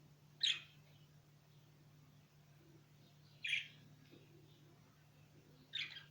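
A small bird chirping three times, each a short sharp call, a few seconds apart. A faint steady low hum runs underneath.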